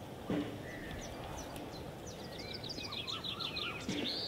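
Birds chirping over a steady outdoor background hiss, with a quick run of high chirps in the second half.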